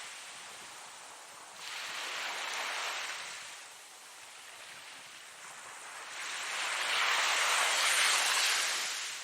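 Ocean waves washing in: a hiss that swells and fades, with a smaller surge a little under two seconds in and a bigger one building to a peak about eight seconds in.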